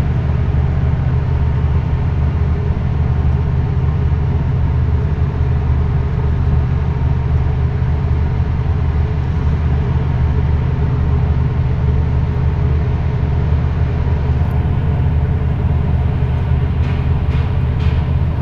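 Ship's diesel engine running steadily: an even, deep drone that does not change. A few faint ticks come near the end.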